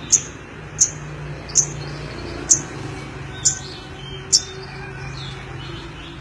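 Lovebird giving sharp, high chirps, six of them at an even pace about once a second, then stopping, over a steady low hum.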